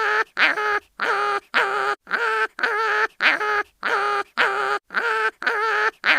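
Cartoon animal crying in pain: short pitched cries repeating about twice a second, with a brief gap between each.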